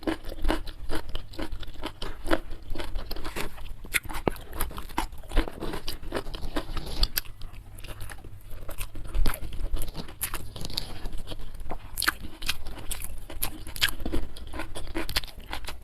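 Close-miked chewing and crunching of food in the mouth: many small irregular crunches and mouth clicks, one after another.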